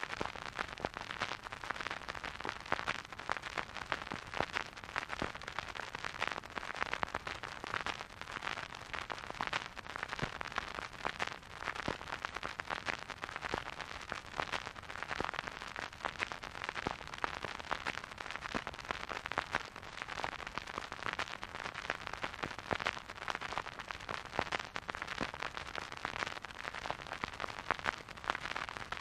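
Vinyl record surface noise from a turntable spinning with no music: a steady soft hiss thick with fine crackles and pops.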